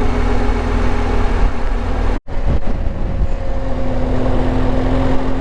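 Motorcycle engine running under way, with steady road and wind noise. The sound drops out for an instant about two seconds in.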